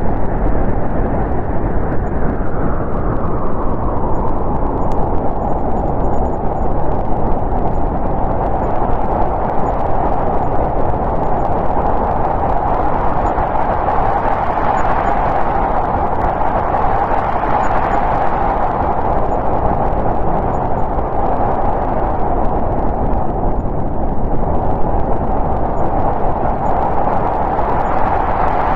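Snowstorm wind blowing steadily, a rushing noise that swells in gusts about halfway through and again near the end.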